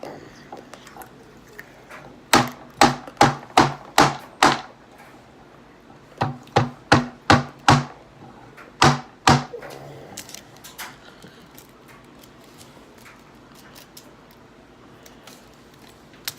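A run of hard, sharp knocks, two or three a second, in three bursts, most likely a large jawbreaker-style hard candy being chopped or whacked against a hard surface to break it open.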